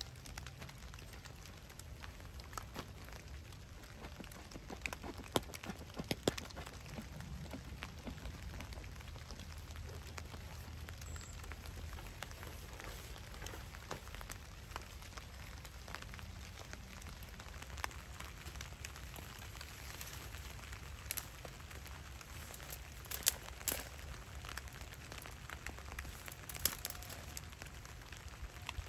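Rain falling in the woods as a steady hiss, with scattered sharp drop ticks at irregular intervals and a few louder ticks near the end.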